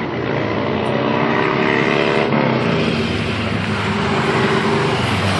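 Road traffic: car engines and tyre noise. One engine's pitch glides and then drops away about two seconds in, and a steady engine hum carries on after it.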